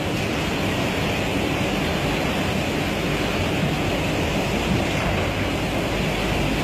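A violent storm: a steady, dense, unbroken rush of noise.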